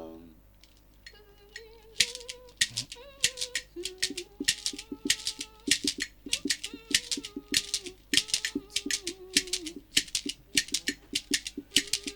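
Music: a shaker or rattle playing a quick, steady rhythm that starts about two seconds in, over a faint melody line.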